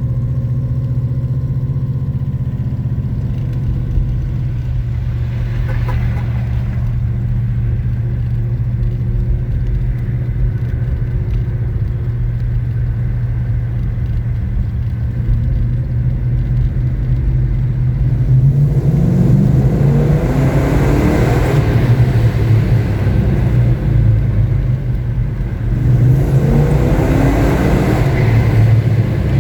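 Dodge V8 engine with FiTech fuel injection rumbling at a steady low cruise inside a tunnel, then floored twice in the second half: each time the note climbs as the car accelerates and then drops back to a cruise.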